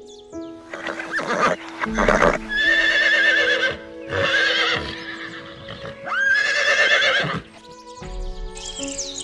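Horse whinnying three times, each neigh high and wavering, after two short rough snorting sounds at the start. Soft background music runs underneath.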